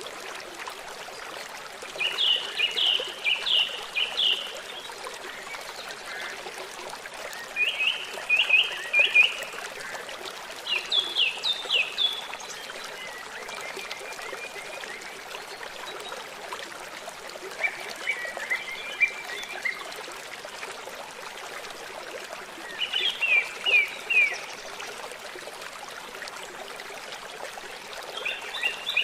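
River water running steadily, with a songbird singing short phrases of rapid, falling notes about every five seconds, louder than the water.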